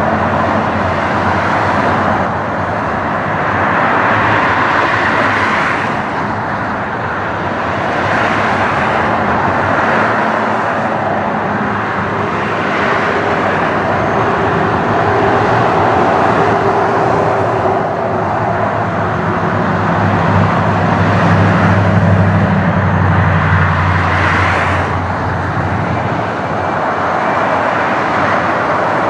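Airbus A319 airliner's jet engines giving a steady, loud rush of noise, with a deeper hum that swells from about two-thirds of the way through.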